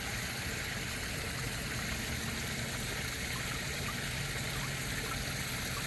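Koi pond water running and trickling steadily.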